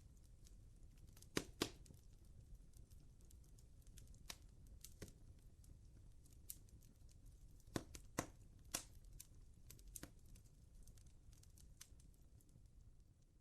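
Recorded crackling-firewood sound played from a Bluetooth speaker inside an artificial fireplace: faint, irregular pops and snaps over a low hiss, with a sharp double pop about a second and a half in and a cluster of pops around the middle.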